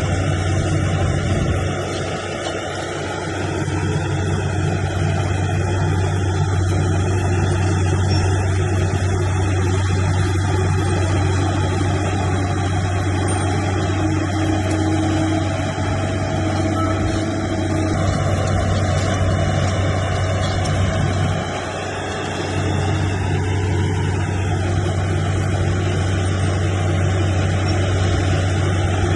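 Bulldozer's diesel engine running steadily under load, easing off briefly twice, about two seconds in and again about three-quarters of the way through.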